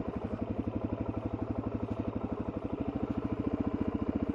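Suzuki DR-Z400S's single-cylinder four-stroke engine running steadily at low revs, each firing pulse separately audible.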